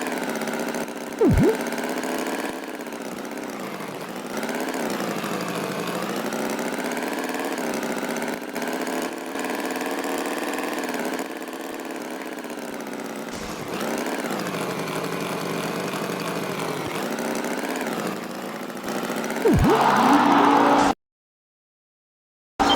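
Animated tractor engine sound effect running, its pitch slowly rising and falling as if revving. Brief sharp sound effects come about a second in and again near the end. The sound then cuts off into silence for about two seconds.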